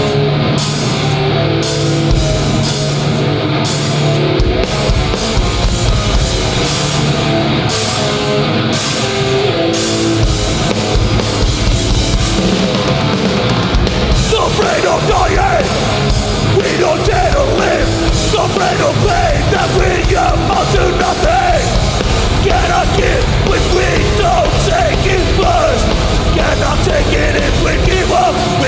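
Hardcore punk band playing live at full volume, distorted guitars, bass and drums, with a stop-start riff for the first ten seconds or so. From about halfway through, a wavering higher melodic line runs over the band.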